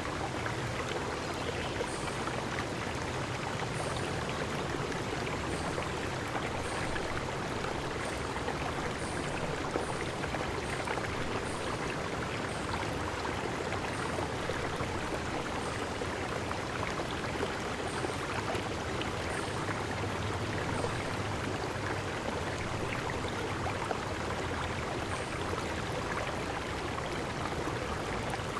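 Forest ambience: the steady rush of running water, like a stream, with short high chirps repeating about once a second for much of the time.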